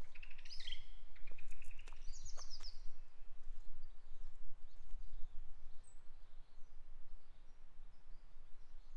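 A small bird singing a few quick, high chirping phrases during the first three seconds, over a steady low rumble of outdoor background noise.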